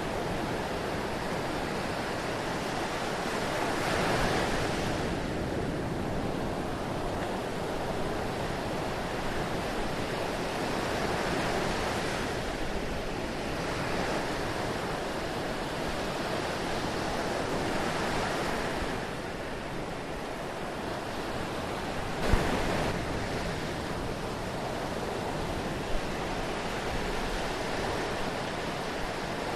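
Sea waves washing ashore, a steady rush that swells every few seconds as each wave breaks. Two brief thumps stand out late on.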